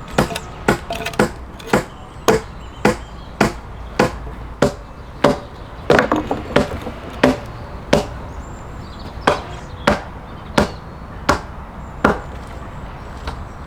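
An axe chopping into a log, one strike after another in an even rhythm of a little under two strokes a second.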